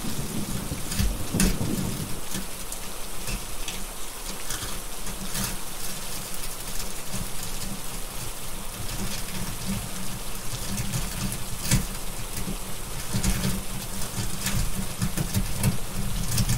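Steady heavy rain with rolling thunder: a low rumble dies away about two seconds in and swells again in the second half. Scattered sharp crackles from a fireplace run over the rain.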